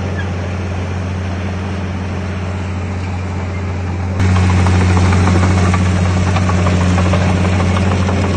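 Heavy diesel engine of earthmoving machinery running steadily with a deep hum, suddenly louder about four seconds in.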